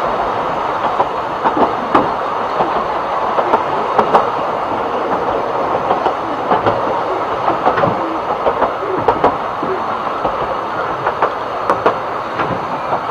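Narrow-gauge railway carriage running along the track: a steady rumble of wheels on rail, broken by frequent irregular clicks and clacks.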